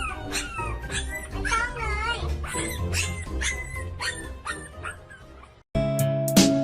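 A pet's repeated short, high whining cries, rising, falling and wavering in pitch, over background music. About five and a half seconds in they cut off and strummed acoustic guitar music begins.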